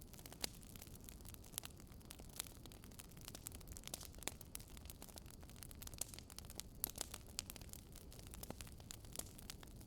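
Fireplace crackling: irregular sharp pops and snaps, several a second, over a low steady rumble.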